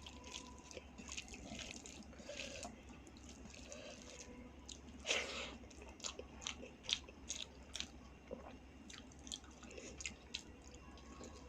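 Close-miked chewing and wet mouth sounds of someone eating rice, dal and vegetable curries: frequent small clicks and smacks, with a louder smack about five seconds in.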